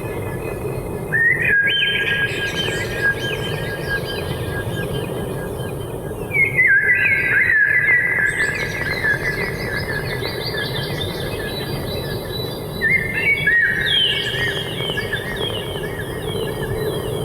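Birds chirping in three busy bursts, about a second, six seconds and thirteen seconds in, over long steady high tones and a continuous low rumble.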